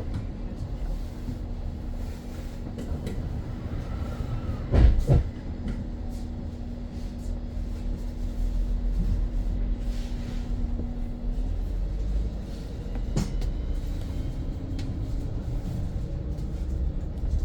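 Inside a BYD BD11 battery-electric double-decker bus on the move: a steady low rumble with a constant hum that fades out about two-thirds of the way through. A loud thump comes about five seconds in, and a lighter knock later.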